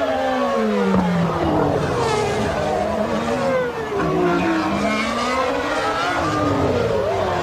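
Early-1990s Formula One car engines at high revs, several at once, their pitch sliding down and climbing back up as the cars brake, change gear and pass.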